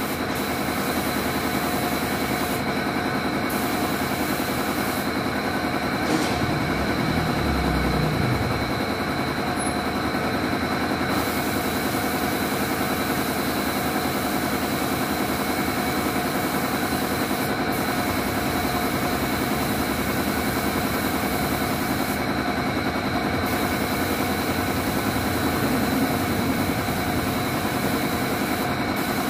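An old motorcycle engine idling steadily.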